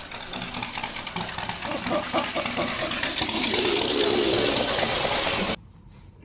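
Harley-Davidson motorcycle engine running amid heavy noise that grows louder about three seconds in, then cuts off abruptly near the end.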